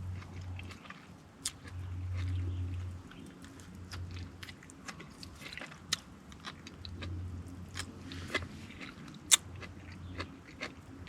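A person chewing and biting food close to the microphone, with scattered small clicks and mouth sounds.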